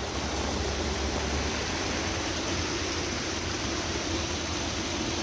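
Small waterfall rushing steadily: an even, unbroken hiss of falling water with a low rumble underneath.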